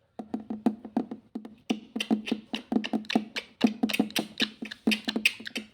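Rapid woody clicking, several sharp strokes a second, uneven in spacing.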